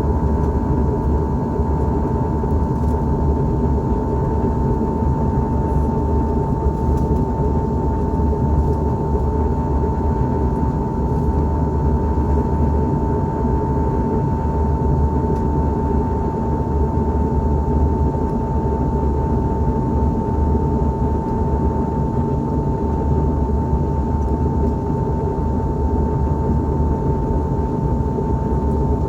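Steady cabin noise inside an Airbus A321-211 in flight: a constant low rumble from its CFM56 turbofan engines and the airflow, with one unchanging high-pitched whine running through it.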